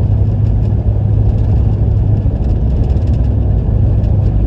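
A car driving, heard from inside the cabin: a steady low rumble of engine and tyres with light scattered rattling clicks.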